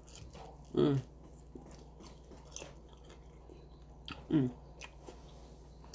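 A person chewing a taco close to the microphone: soft mouth clicks and chewing, with two short hums, about a second in and again about four seconds in.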